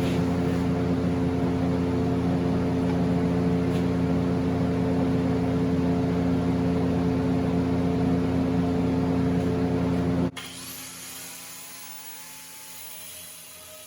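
Electric power tool motor running steadily, then switched off about ten seconds in and winding down.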